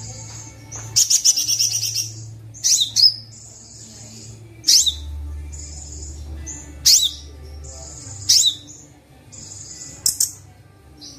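Kolibri Wulung sunbird song played as a training recording: a fast high trill about a second in, then five sharp downward-sweeping whistles spaced about one and a half to two seconds apart, with short buzzy high notes between them.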